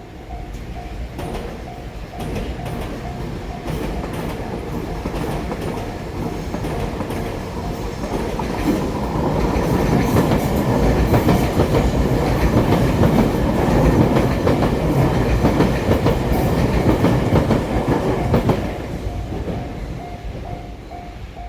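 A train passing close by over a level crossing, wheels clacking over the rail joints. It builds up and is loudest over the middle stretch, then fades. The crossing's warning bell rings steadily throughout, plainly heard at the start and end.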